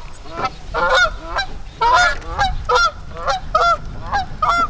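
Geese honking: a quick run of short honks, about two or three a second.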